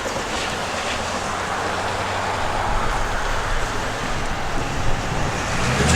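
Long Island Rail Road M9 electric multiple-unit train running, a steady rolling rumble and hum that slowly gets louder.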